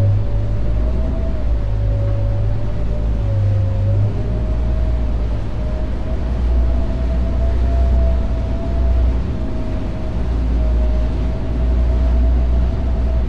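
Boat engines running steadily underway: a deep rumble with a high whine above it that wavers slightly in pitch.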